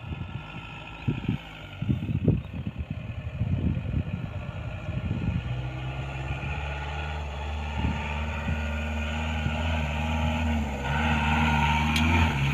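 Mahindra diesel engine running at a steady idle, a bit louder near the end. It is preceded by irregular low rumbling gusts over the first five seconds.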